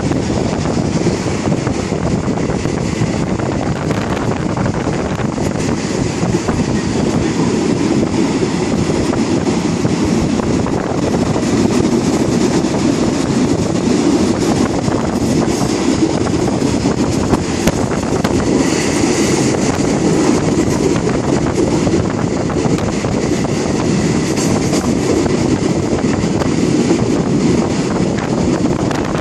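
Train running at speed, heard from inside a carriage: a steady rumble of wheels on the rails.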